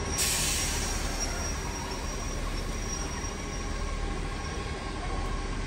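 Steam-hauled heritage passenger train moving slowly along a station platform: a steady low rumble from the rolling carriages. About a quarter of a second in there is a burst of hiss that fades over about a second.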